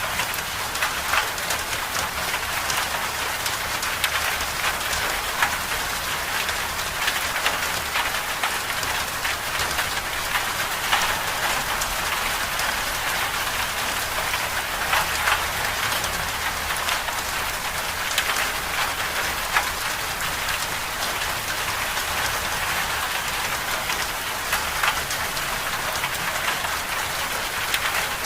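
Steady storm rain falling on a surface: an even hiss with frequent small, sharp drop ticks scattered through it.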